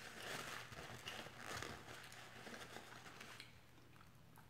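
Close-miked chewing of food, soft crunching and mouth sounds with small clicks, dying down after about three and a half seconds.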